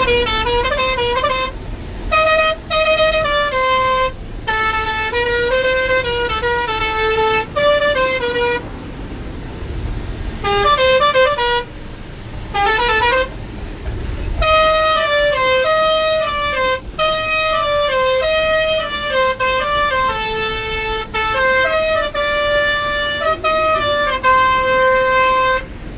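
Truck's musical pressure horn playing a tune, a run of loud stepped notes in repeated melodic phrases with short breaks between them, over a low engine rumble.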